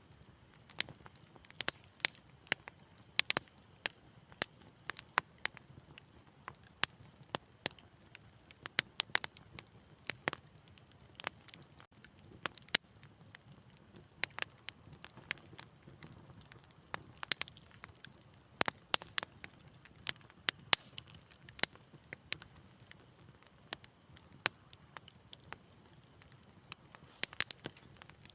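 Wood fire crackling, with frequent sharp irregular pops and snaps over a faint low hiss.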